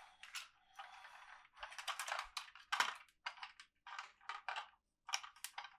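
A quick, irregular run of short crinkling and scraping sounds, about a dozen, from hands handling toy packaging.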